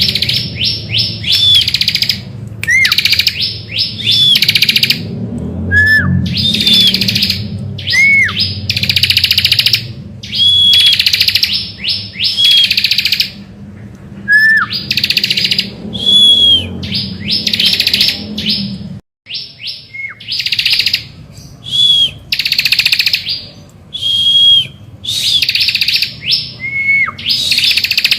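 Bar-winged prinia (ciblek) singing continuously: rapid, buzzy trills repeated about once a second, broken up by whistled notes that drop sharply in pitch and by short high notes. A low hum underneath stops after a brief dropout about two-thirds of the way through.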